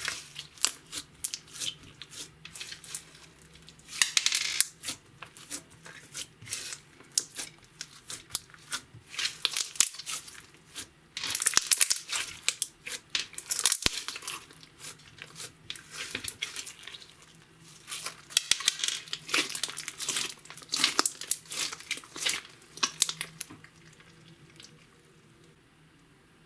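Clear slime being mixed and squished, with sticky crackling, clicking and small pops in irregular bursts of varying loudness, dying down near the end.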